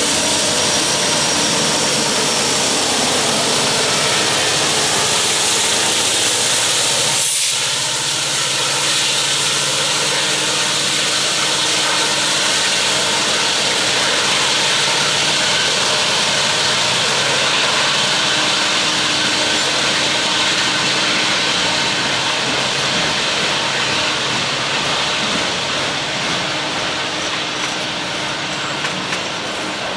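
A train rolling past at close range: loud, steady noise of wheels on rail.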